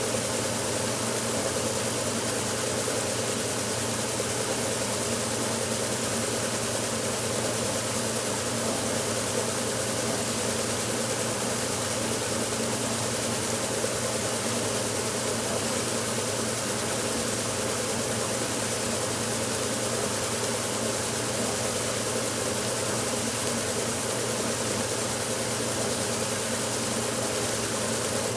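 1969 Westinghouse LAJ 535A3 washing machine running mid-cycle: a steady motor hum with an even hiss over it.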